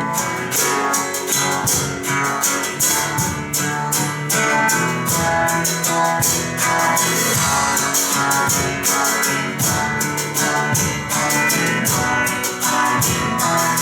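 Instrumental break of a worship band: guitar over drums and a shaker-type percussion ticking out a steady beat, with no singing.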